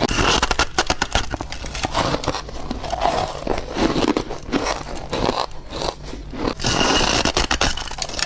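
Ice being bitten and chewed close to the microphone: a dense run of sharp crunches and crackles as the ice breaks up between the teeth.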